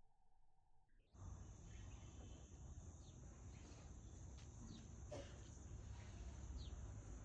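Quiet outdoor ambience that cuts in about a second in: a steady high-pitched insect drone, short falling bird chirps every second or two, and a low rumble underneath, with a single click about five seconds in.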